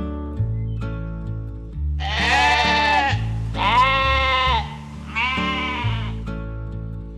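Three drawn-out animal calls with a wavering pitch, each about a second long, over background music with a steady bass line.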